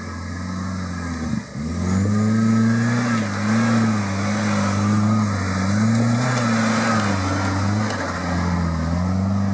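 Off-road vehicle's engine under load, its revs dipping sharply about a second and a half in, then picking up and rising and falling as it works.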